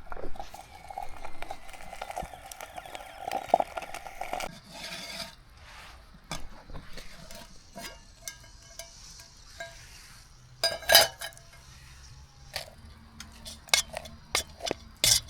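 Camp cookware and utensils clinking and knocking, with a few sharp metallic clinks in the second half.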